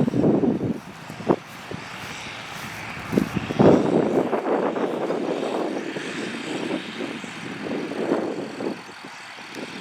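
John Deere 8300 tractor's diesel engine running under load while cultivating. The sound swells about three and a half seconds in, then slowly eases off.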